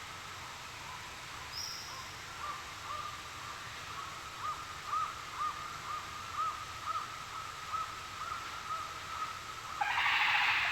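A bird calling a run of short, arched notes, about two a second, over a steady high tone and a constant background hiss. Near the end comes a louder, harsh, rasping call lasting about a second.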